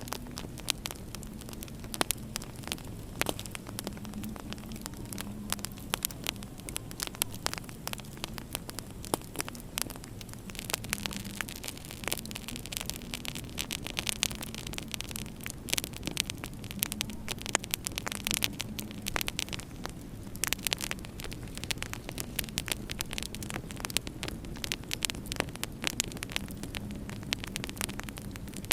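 Wood fire in a fireplace crackling, with many irregular sharp pops and snaps, over a steady low hum.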